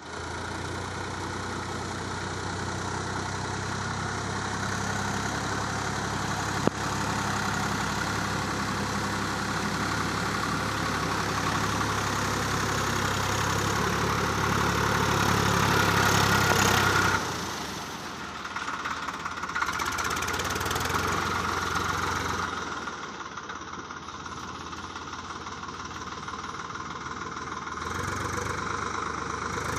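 Swaraj 744 FE tractor's diesel engine running steadily with a low, even throb, slowly growing louder until it drops off suddenly a little over halfway through. A single sharp click about seven seconds in.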